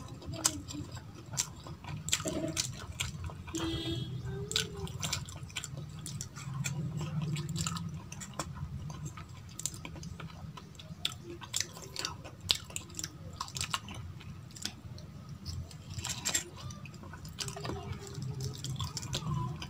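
Close-miked eating sounds: chewing a mouthful of rice and vegetables, with many short wet mouth clicks and smacks throughout. Fingers are mixing rice and vegetable curry on a steel plate.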